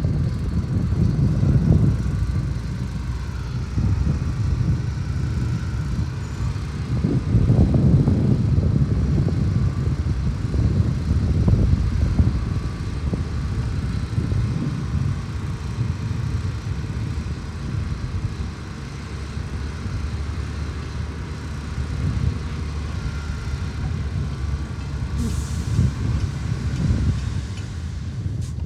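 Heavy diesel engines of earthmoving machinery running under load, a deep rumble that swells and eases, with a brief hiss near the end.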